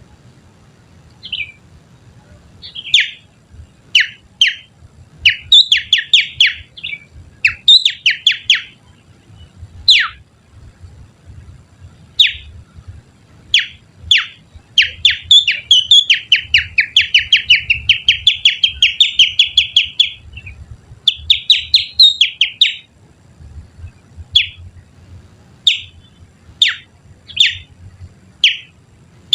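Finger whistling through the little finger, imitating the song of a kutilang sutra (sooty-headed bulbul) as a lure call: sharp, mostly falling chirps, then a fast trill of repeated notes lasting about five seconds in the middle, then spaced single chirps again.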